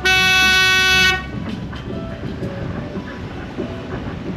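A boat horn sounds one blast of about a second, then the boat's engine runs on under steady wind and water noise.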